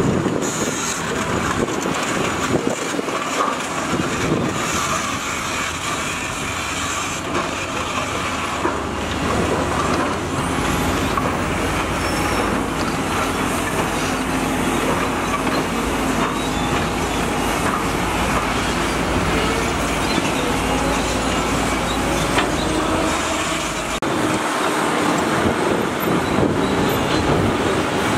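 Heavy diesel vehicles running steadily, a continuous mechanical rumble and clatter.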